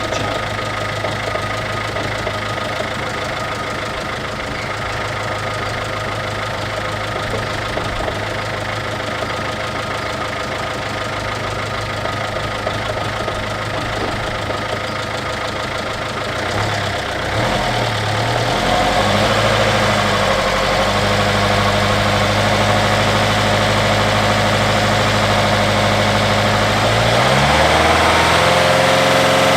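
MINI R56's 1.6 HDi DV6 diesel engine idling. Its speed wavers about halfway through, and near the end it rises to a higher steady speed.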